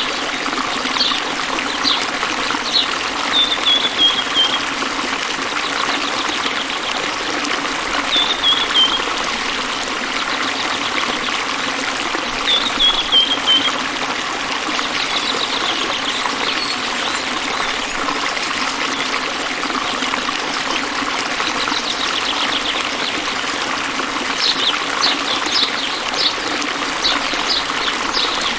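Running water flowing steadily, like a stream, with a bird calling over it: three short, high, falling phrases, and bursts of quick chip notes near the start and again near the end.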